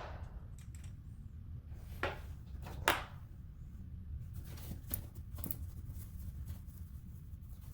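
Faucet parts and tools being handled during a faucet repair: a handful of sharp clicks and knocks, the loudest about three seconds in, over a low steady hum.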